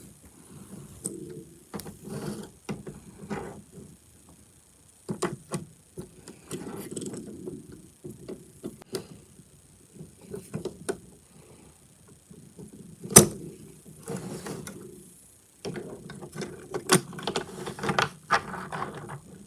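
Small plastic and metal parts of an HO scale boxcar kit being handled and fitted together: scattered clicks, taps and light rattling, with one sharp click about thirteen seconds in.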